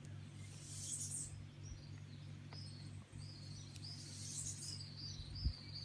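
Lesser Antillean bullfinches chirping in short, high notes that run together from about halfway through, over a steady low hum, with two brief hissy rustles.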